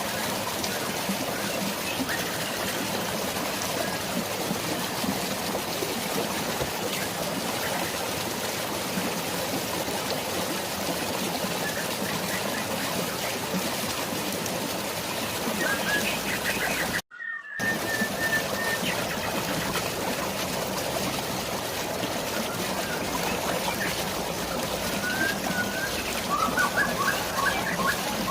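Steady rush of flowing water and rain, with short bird chirps a little past the middle and again near the end. The sound cuts out briefly a little past the middle.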